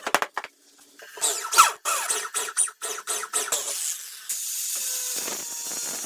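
Workshop work on motorcycle parts: a quick run of clicks, scrapes and squeaks, then a steady hiss from about four seconds in, like spray or compressed air.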